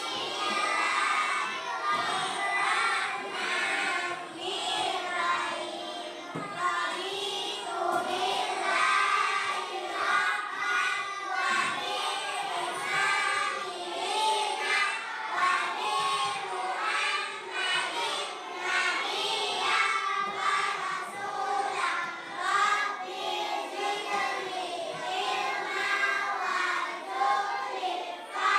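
Many young children's voices at once, singing together.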